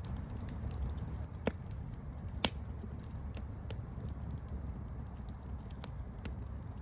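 Campfire burning with a steady low rumble and scattered sharp crackles and pops, the loudest pops about one and a half and two and a half seconds in.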